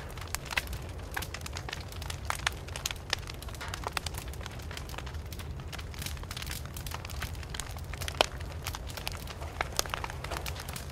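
Open fire burning, with many irregular crackles and pops over a steady low background; one sharper pop about eight seconds in.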